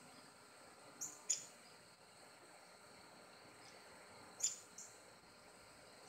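Small birds giving short, sharp high chirps, two pairs of chirps each about a third of a second apart, a little after the start and again past the middle, over a faint steady high-pitched background hum.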